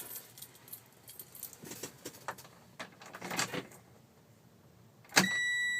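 A ignition key ring jangling and clinking as the key goes into the truck's ignition. About five seconds in the key is turned on and the dashboard warning buzzer comes on with a steady high tone.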